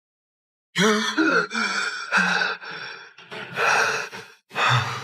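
A man gasping and panting hard, about five sharp breaths one after another, starting about a second in. He is jolting awake in fright from a nightmare.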